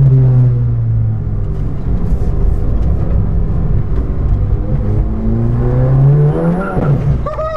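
Turbocharged 2.0-litre four-cylinder engine of a stage 3 VW MK7 GTI track car under way. Its note falls early on, runs steady, then climbs as it accelerates about five seconds in and drops away sharply near the end.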